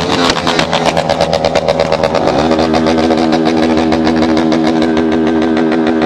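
Motorcycle engine running loudly, its note shifting for the first couple of seconds. About two and a half seconds in it rises briefly and then holds a steady pitch.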